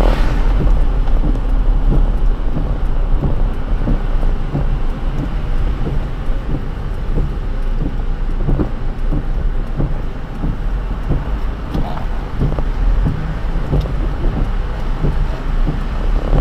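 A car driving on a wet road in the rain: a steady low rumble of tyres and engine, with many small irregular taps over it.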